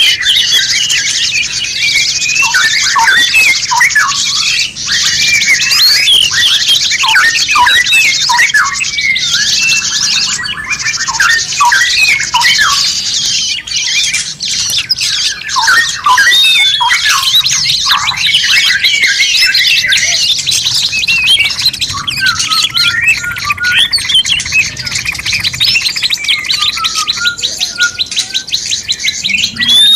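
Dense chorus of songbirds singing over one another: many quick chirps and short whistled glides, with a fast rattling trill near the end. This is a 'masteran' recording, a mix of songbird songs played to teach caged songbirds.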